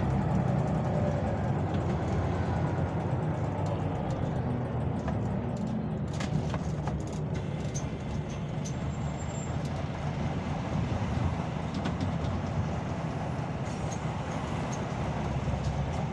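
Scania OmniLink CL94UB city bus running, a steady low engine rumble with a few light rattles and clicks around the middle.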